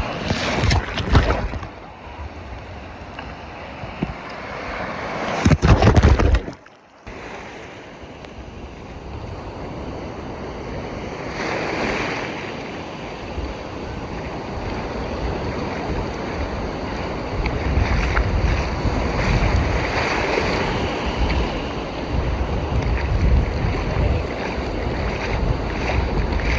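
Stormy sea surf washing and breaking on the shore in rolling surges, with wind buffeting the microphone in strong gusts during the first seconds.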